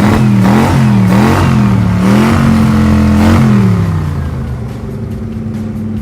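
Cartoon monster truck engine sound effect revving, its pitch swinging up and down several times, then falling about three and a half seconds in and settling to a steadier, quieter running note.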